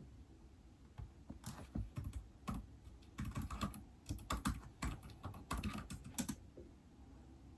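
Typing on a keyboard used with an iPad: a quick, irregular run of key clicks lasting about five seconds, then it stops.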